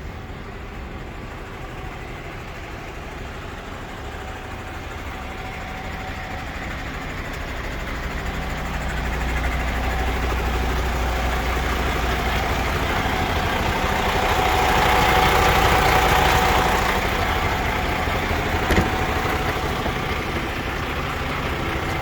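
MAN TGS 41.440 tipper truck's six-cylinder diesel engine running steadily, growing louder through the middle and easing off a little, with a single sharp knock near the end.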